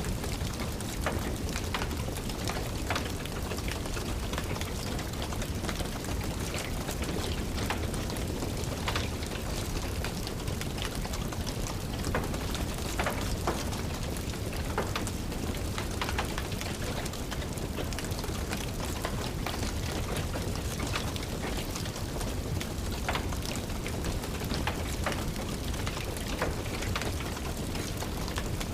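Steady rain with irregular sharp crackles from a wood fire in a fireplace.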